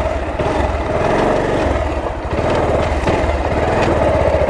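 Motorcycle engine running at low revs just after being started, with a steady pulsing exhaust note as the bike pulls slowly away.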